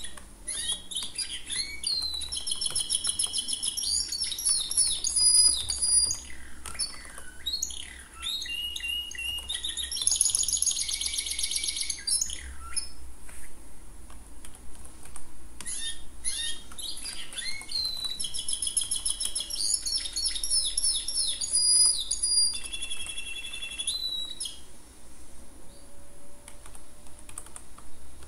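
A songbird chirping and trilling in high, repeated phrases, mixed with the clicks of typing on a computer keyboard.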